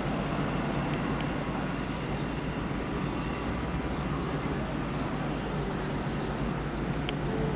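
Distant CP electric multiple unit running along the station tracks: a steady noise with most of its weight in the lows, and a few faint clicks about a second in and again near the end.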